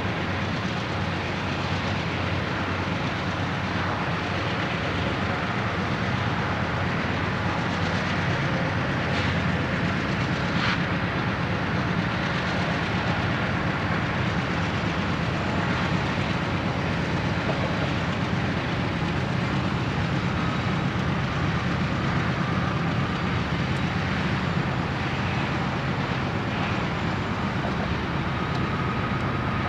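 A coal train's loaded hopper cars rolling steadily along the track: a continuous rumble of wheels and cars. A faint high tone comes and goes in the second half.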